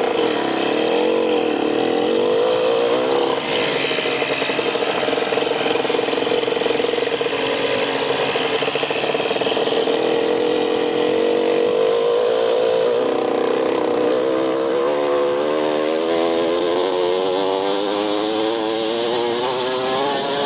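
Motorcycle engine running under way, its pitch wavering early, holding steady through the middle and climbing over the last few seconds as the revs rise.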